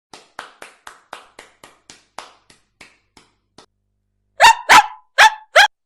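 A woman imitating a dog barking with her own voice: a run of faint short sounds at about four a second that fade out, then four loud barks in two quick pairs.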